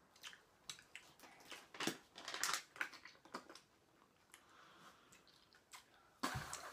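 Chewing jelly beans: soft wet mouth clicks and smacks at irregular intervals, with a louder noisy burst near the end.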